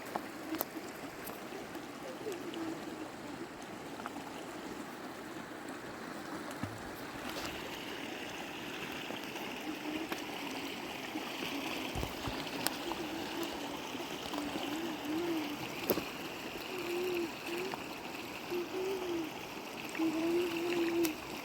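Steady rush of flowing river water, with a faint wavering voice heard mostly in the second half.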